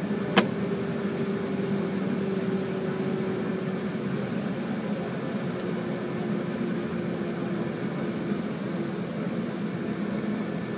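Running noise inside a JR 185 series electric train on the move: a steady rumble with a faint steady hum that drops slightly in pitch about halfway through. A single sharp click sounds about half a second in.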